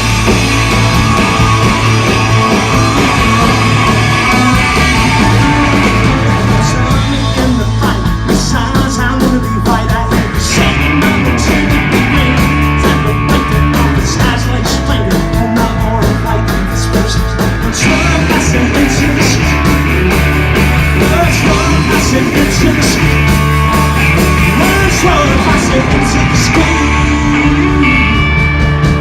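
Live punk rock band playing a loud song: electric guitars, bass and drums, with sung vocals.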